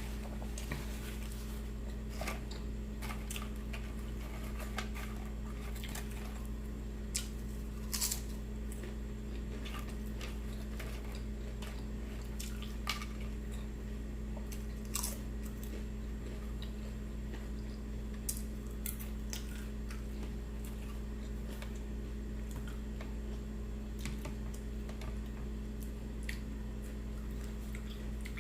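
A person chewing a sandwich with lettuce and pickles close to the microphone: scattered short mouth clicks and soft crunches, the sharpest about eight and fifteen seconds in, over a steady low hum.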